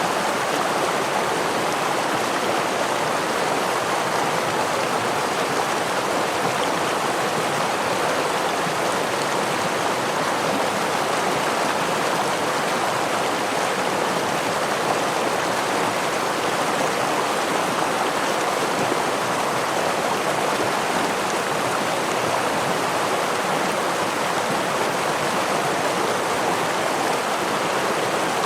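Forest stream flowing over a small waterfall: a steady, even rush of water with no change throughout.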